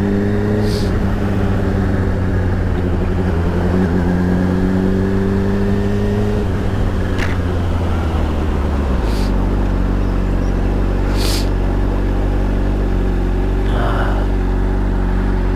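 Honda CBR125's single-cylinder engine pulling up through the revs, its pitch climbing twice, then dropping away about six seconds in and settling to a steady lower note. A steady rush of riding noise runs underneath, with a few brief ticks.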